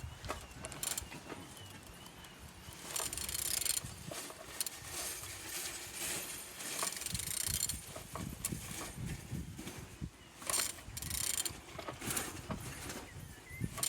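A removed car engine being turned over by hand, with irregular mechanical clicking and scraping from the turning tool and the rotating internals. The engine turns freely.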